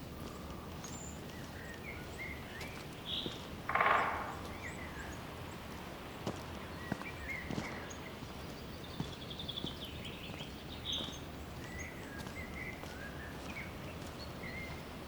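Small forest birds chirping here and there over a steady background hiss, with a short trill of quick notes a little after halfway. A brief harsh, rasping sound about four seconds in is the loudest thing.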